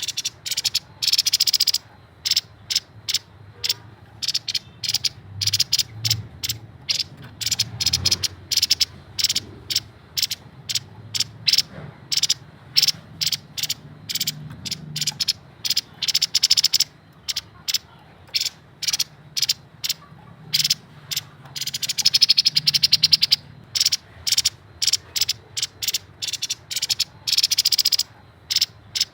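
Grey-headed babbler singing with fast, dry, high chattering notes in quick series, broken now and then by longer unbroken rattles.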